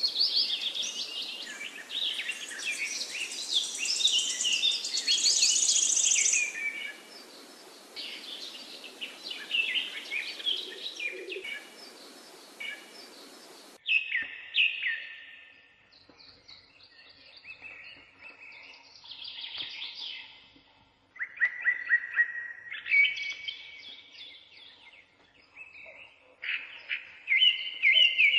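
Birdsong: many short chirps and trills overlapping over a steady hiss. About halfway the hiss drops away suddenly and the calls come in sparser bursts.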